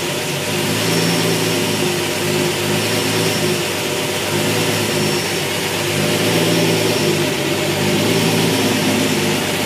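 Car engine idling with a surge, its note rising and falling about every two seconds: an unsteady idle on an engine run by an aftermarket ECU as it warms up.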